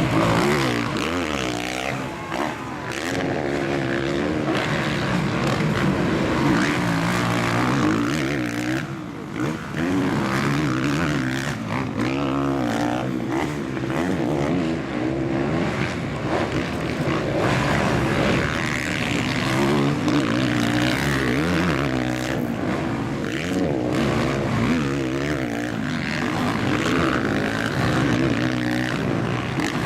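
Several MX1 motocross bikes racing, engines revving up and dropping back over and over as riders open and shut the throttle and change gear, with more than one bike heard at once.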